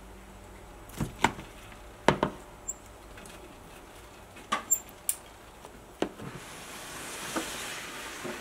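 A scatter of sharp clicks and knocks, about ten in all, from handling snake cages during feeding, followed near the end by a soft hiss-like noise that swells and fades.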